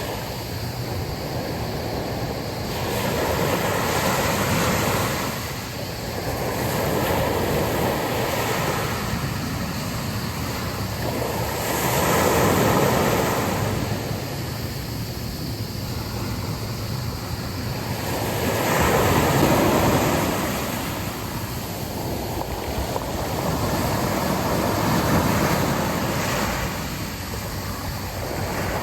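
Sea waves breaking and washing up on a beach, the surf swelling louder every few seconds and easing off between.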